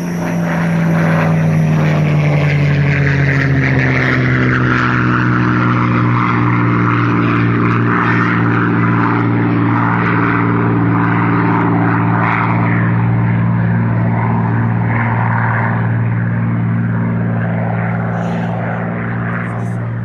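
Parkzone Spitfire RC model plane's electric motor and propeller droning in flight, a steady pitched buzz that sags slightly in pitch over the first few seconds and then holds, easing a little near the end.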